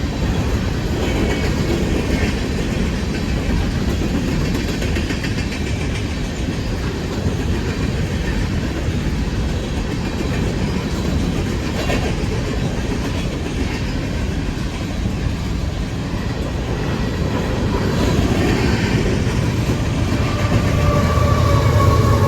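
Coal train cars rolling past at close range, steel wheels rumbling and clattering on the rails. Near the end a low steady engine drone grows louder, the sound of the end-of-train distributed-power locomotive drawing near.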